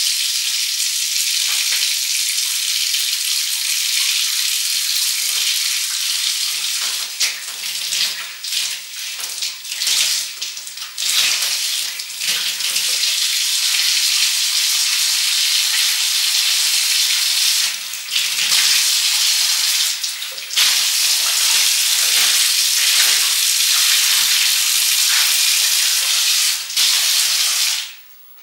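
Steady, hissing rush of running water, cutting off abruptly near the end.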